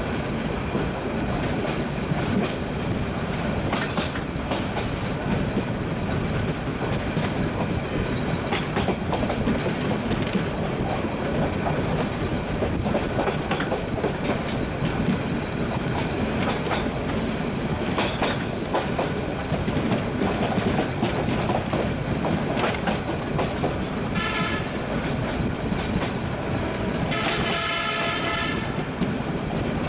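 Passenger train running along the track, heard from a carriage: a steady rumble with wheels clicking over the rail joints. Near the end the horn sounds twice, a short blast and then a longer one.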